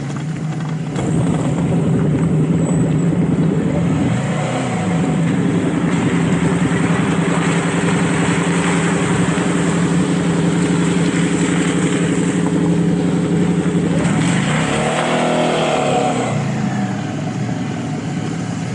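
Suzuki V-Strom 650 V-twin motorcycle engine running under way, with wind and road rush. The engine note dips and rises in pitch twice, about four seconds in and again near the end, as the revs change.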